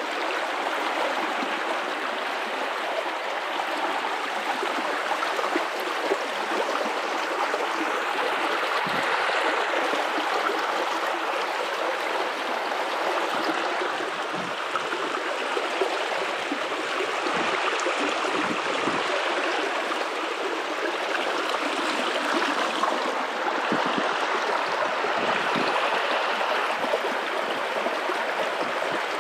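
River water running and rushing steadily over rocks, a continuous even flow with small gurgles.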